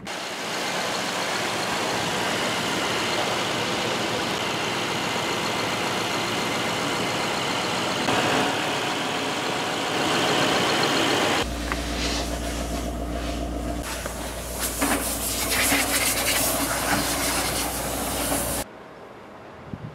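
Mercedes-AMG E63 S's 4.0-litre twin-turbo V8 running. For the first eleven seconds or so it is a steady, even rush. It then turns into a deep, uneven exhaust rumble that stops shortly before the end.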